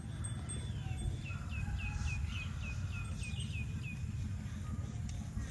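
A bird calling a quick run of short, repeated high chirps, about five a second, from about a second in to about four seconds, over a steady low outdoor rumble.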